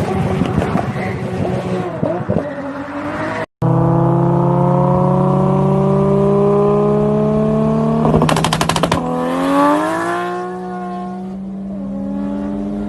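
Toyota Supra MK4's turbocharged 2JZ straight-six: quick rev blips rising and falling, then, after a brief dropout, a steady engine note climbing slowly in pitch under acceleration. Near the middle comes a short burst of rapid popping, after which the revs rise sharply and then settle.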